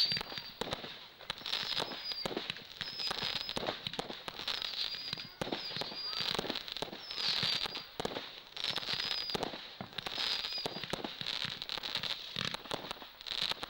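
Fireworks going off in a rapid run of cracks and crackles, with a short high falling whistle about every second and a half.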